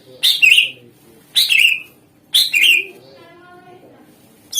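Green leafbird (cucak ijo) singing: three short, loud calls about a second apart, a fourth starting near the end, with softer warbling phrases in the gaps.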